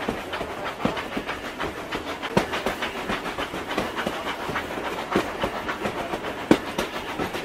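Train running along the rails, its wagons' wheels clattering steadily with irregular clicks and knocks.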